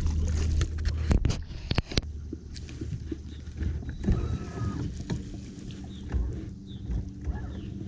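Steady low hum of a boat's motor, with many scattered knocks and clicks in the boat.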